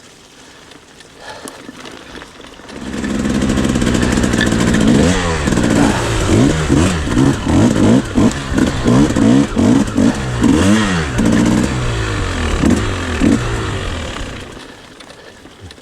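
Several enduro motorcycles riding by close, their engines revving up and down with overlapping pitches. The sound swells up about three seconds in and dies away near the end.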